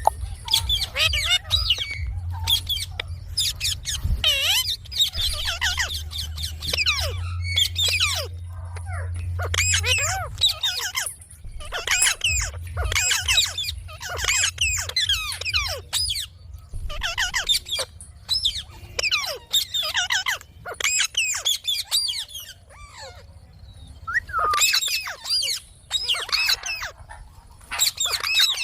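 Parrot calling in quick runs of warbling, chattering notes and squawks, with short pauses between runs. A low hum sits underneath for about the first ten seconds.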